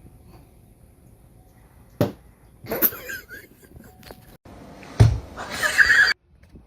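A sharp knock followed by an animal's cry, then a heavier thump and a louder, longer cry that cuts off suddenly.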